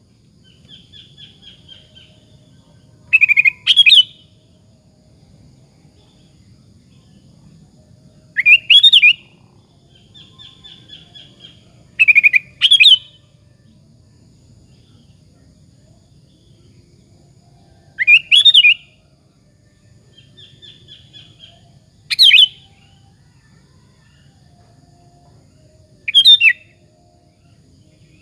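Sooty-headed bulbul (kutilang) in full song: six short, loud whistled phrases of two or three notes, spaced about four to six seconds apart, with softer trilling chatter between some of them.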